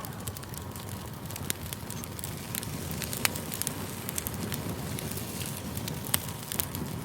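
Campfire burning: a steady low rush of flame with frequent sharp crackles and pops from the burning wood, a few of them louder snaps.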